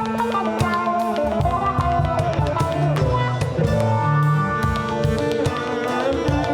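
A live band playing an instrumental passage: plucked guitar and mandolin and held, sliding melody lines over a steady drum beat.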